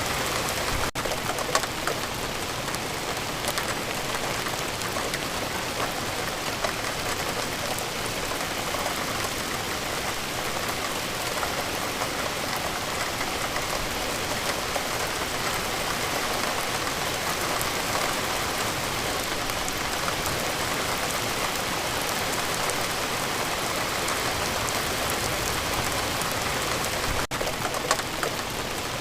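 Steady rain falling, a continuous even patter with scattered louder drops.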